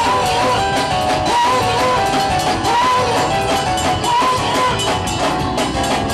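Live gospel band playing fast praise-break music: a bending lead guitar line repeating over drums and bass.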